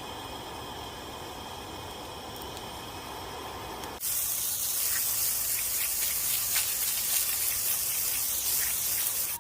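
Mackerel grilling over an oak-wood fire: a steady low hiss, then about four seconds in it jumps sharply to a loud sizzling hiss full of small crackles and pops.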